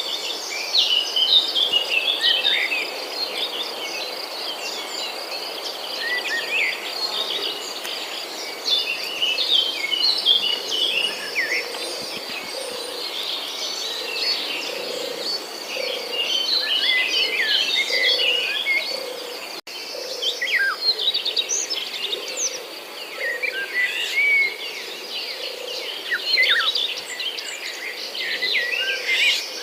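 Many small birds chirping and calling at once, a busy chorus of short overlapping chirps and trills.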